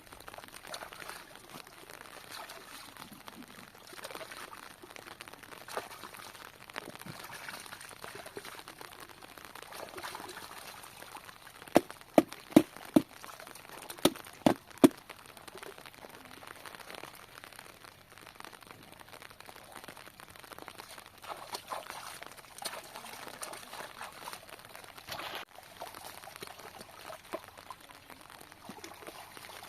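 Low rustling and handling noise, with a quick run of about seven sharp, ringing knocks about halfway through.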